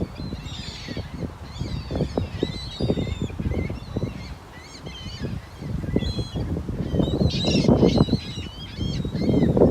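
Strong wind buffeting the microphone in gusts, heaviest about seven seconds in and again at the end. Under it, a flock of birds keeps up many short, overlapping high calls.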